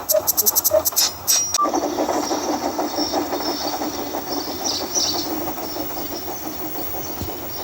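A beat-driven music track plays for about the first second and a half. It then gives way to the steady running sound of a steam train, a rumbling rattle with hiss.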